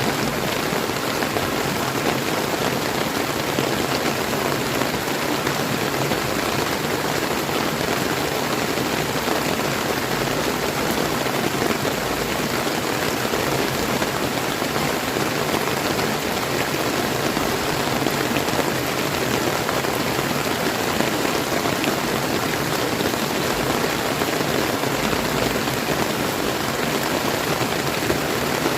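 Steady rain falling, mixed with the continuous rush of a flowing river; an even hiss with fine pattering that holds level throughout.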